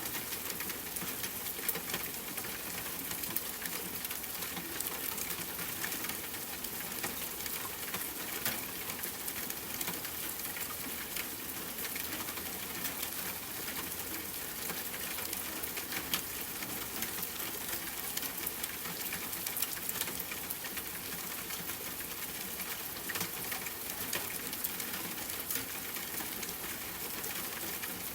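Steady rain falling, a constant hiss, with scattered sharp pops and crackles of a campfire burning.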